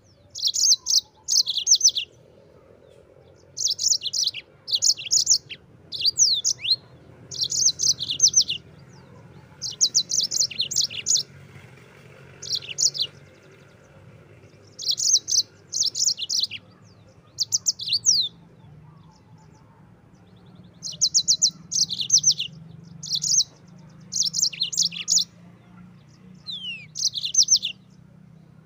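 Yellow-fronted canary singing: short phrases of rapid, high, trilled notes and quick downward-slurred whistles, repeated every second or two with brief pauses between them.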